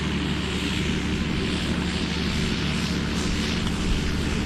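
Tractor diesel engine running steadily, a continuous drone with machinery noise over it.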